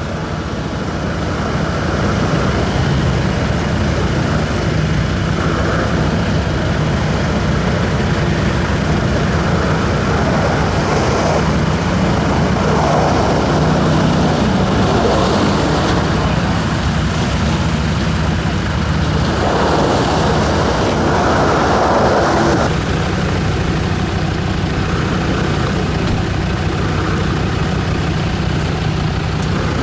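Off-road 4x4 engine running steadily, with a spread of noise over it that swells twice, about a third and two-thirds of the way through.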